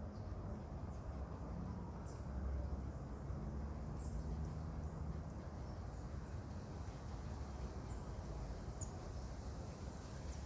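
Marmosets giving short, high-pitched squeaky chirps, scattered every second or two, over a low rumble.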